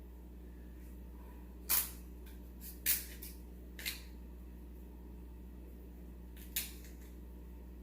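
Crab shell cracked apart by hand, with four sharp cracks spread over several seconds, over a faint steady low hum.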